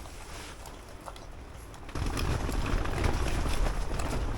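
Wind gusting against the tent and microphone: a low rumble that comes up suddenly about two seconds in, with light scattered ticks throughout.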